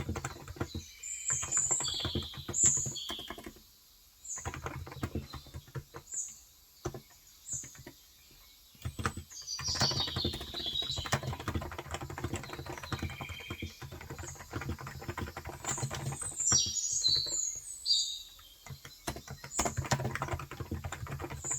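Typing in quick runs on a Cox Endeavour electro-capacitive (Topre-style, 35 g) tenkeyless keyboard, the runs broken by short pauses. Birds chirp high and briefly throughout, most busily about ten seconds in and again near seventeen seconds.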